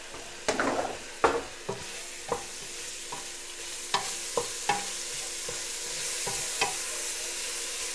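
Ground beef, onion and chopped tomato sizzling in a stainless steel pot while a wooden spoon stirs, knocking against the pot now and then, about nine times. The sizzle grows a little louder in the second half.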